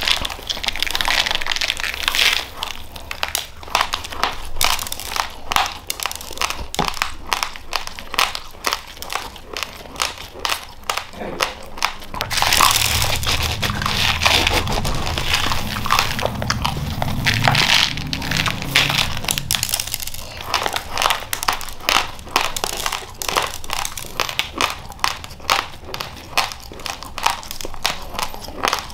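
Close-miked crunching of raw, uncooked rice grains being chewed, a dense run of sharp crunches. From about twelve to twenty seconds in, a louder rustle as a hand digs into the rice in a plastic bag, crinkling the plastic and shifting the grains.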